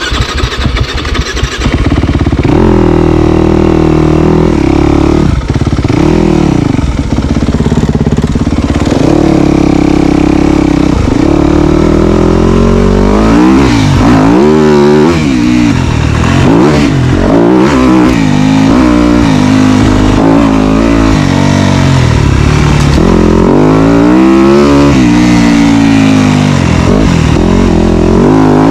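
Dirt bike engine running hard under throttle, its pitch rising and falling over and over as the rider works the throttle and gears. It comes up to full loudness within the first two seconds.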